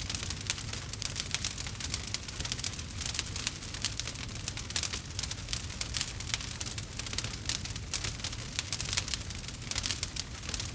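Campfire crackling, with dense, irregular pops and snaps over a steady low rumble.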